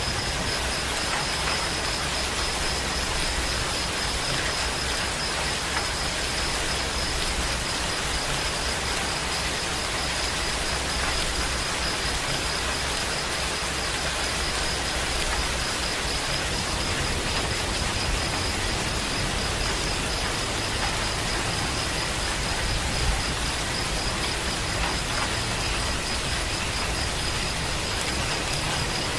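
Steady rain falling, an even hiss of many drops. A continuous high-pitched insect trill runs through it.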